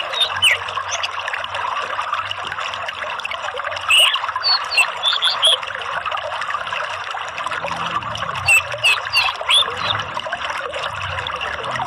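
Running water trickling steadily, with clusters of short, high bird chirps about four seconds in and again near the end.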